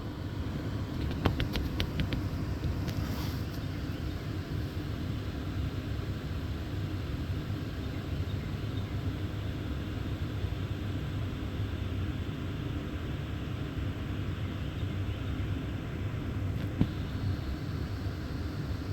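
A woodpecker tapping on wood: a quick run of about six knocks, a little over a second in, over a steady low rumble. A single knock comes near the end.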